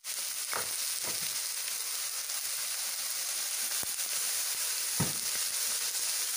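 Mussel, egg and batter pancake (Thai hoi tod) frying in hot oil in a nonstick pan, sizzling steadily, with a few louder crackles.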